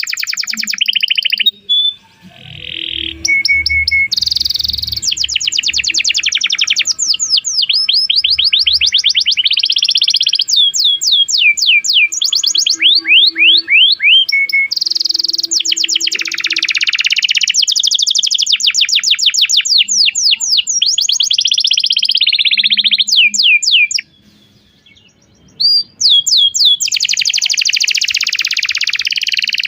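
Domestic canary singing a long song of fast, repeated rising chirps and buzzy trills, with a short break about two seconds in and a longer pause near the end.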